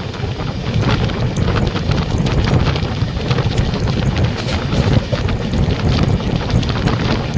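Steady running noise of a moving passenger train heard from on board, with wind buffeting the microphone and irregular clicks and rattles throughout.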